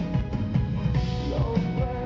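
Live pop-rock band playing: drums, bass and guitars in an instrumental bar, with a singing voice coming in near the end.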